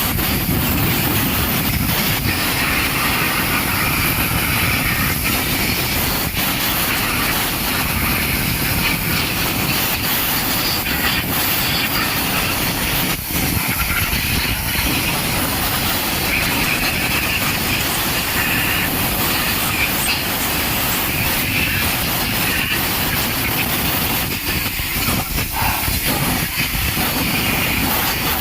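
Automatic car wash running: a steady, loud rush of spraying water and machinery noise.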